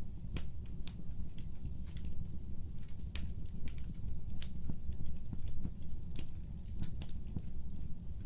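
Fireplace fire crackling: sharp, irregular pops and snaps, several a second, over a steady low rumble of the flames.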